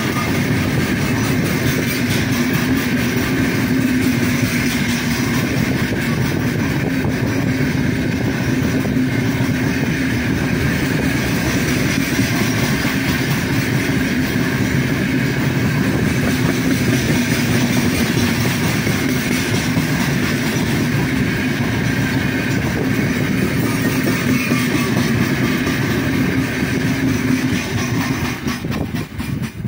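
Heavy freight train's open wagons rolling past at speed close by, a steady loud rumble of steel wheels on the rails. It falls away sharply near the end as the last wagon passes.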